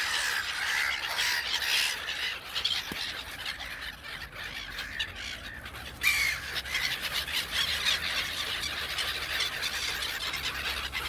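A flock of gulls calling, many squawking calls overlapping at once; the calling thins out for a few seconds and picks up again about halfway through.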